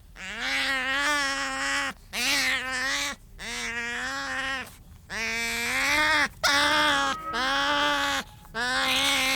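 An animal calling over and over: about seven steady-pitched calls, each about a second long, with brief gaps between them.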